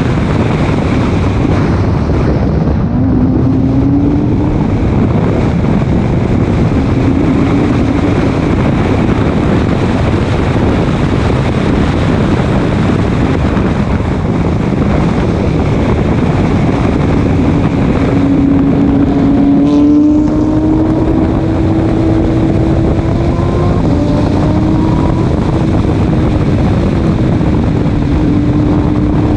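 Race car driven at speed on a track: a loud, steady rush of wind and road noise with the engine's note underneath, its pitch climbing and dropping several times.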